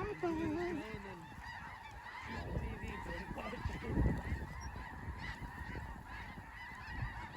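A large flock of snow geese calling overhead: a dense, continuous chorus of many overlapping high yelps and honks, with a brief low thump about four seconds in.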